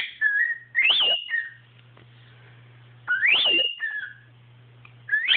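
A cockatiel and a boy trading short whistled phrases: four times a quick whistle sweeps up high and drops to a brief lower note.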